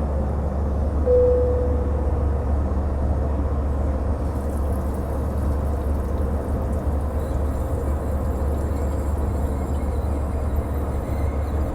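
Steady low rumble and rush of an Airbus A321's cabin in flight, from engine and airflow noise. A brief single tone sounds about a second in.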